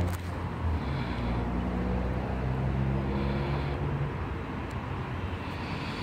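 Sydney Trains Waratah Series 2 electric train pulling into the platform to stop: a steady rumble of wheels on rail with a low motor hum that fades about four seconds in.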